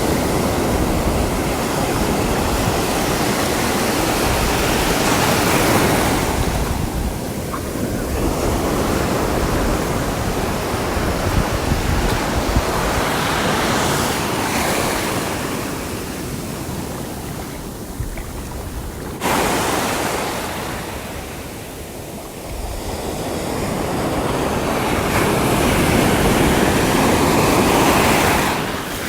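Sea waves breaking and washing on the shore, the surf swelling and ebbing as successive waves come in, with wind rumbling on the microphone. About two-thirds through, the level jumps up suddenly.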